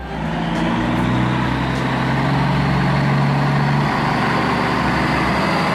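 A train running: a steady rumbling noise with a low engine hum, the hum dropping away about four seconds in while the rumble continues.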